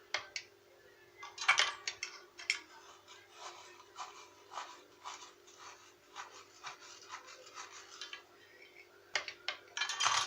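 A run of irregular scraping strokes, about two a second, with a few sharp clicks near the start and again near the end.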